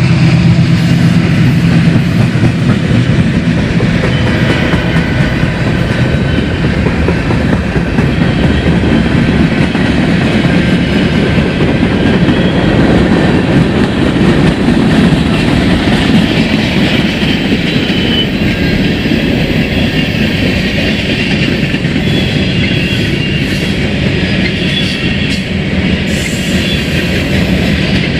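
A train's cars rolling past close by, the wheels clicking and clacking over the rail joints in a steady, loud rumble.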